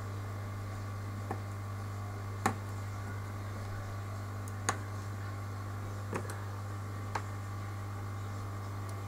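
Steady low electrical hum with five small, sharp clicks scattered through it, the loudest about two and a half and four and a half seconds in.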